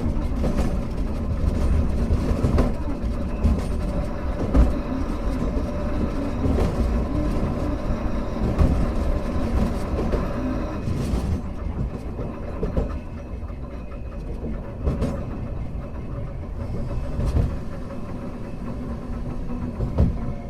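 Hankai Tramway car 351 running along street-tramway track: a steady rumble of wheels on rail with a faint motor hum and scattered sharp clicks as the wheels cross rail joints and track work, easing a little about halfway through.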